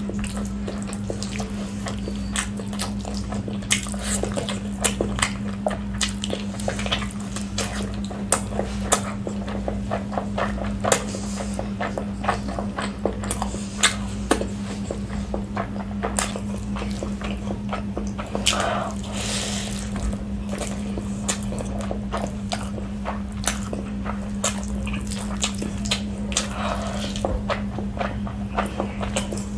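Close-miked eating of chicken biryani by hand: wet chewing and lip smacks, heard as many quick clicks, with the squish of fingers in oily rice. A steady low hum runs underneath.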